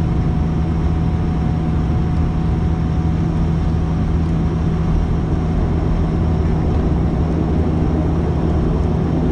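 Dash 8-400 turboprop engines and propellers running on the ground before takeoff, heard from inside the cabin at a window seat: a steady drone with a strong, unchanging low hum.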